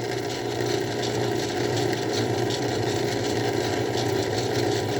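Craftsman 109 lathe running steadily while a 1/2-inch drill bit bores into aluminium: a steady hum with the noise of the cut over it. The bit is throwing one big chip and little from its other lip, which the machinist takes as a sign that it needs resharpening.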